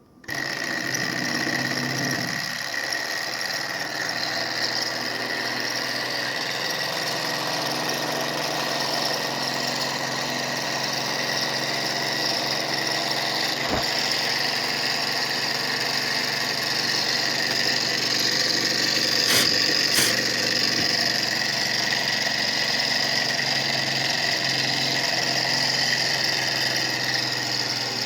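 Small Stirling engine running steadily, a continuous mechanical whir with a high whine over a low hum; it comes in suddenly at the start, and a few sharp clicks sound about halfway through.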